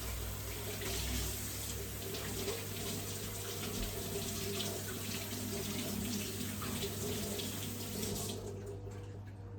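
Water running from a tap into a sink, shut off about eight seconds in.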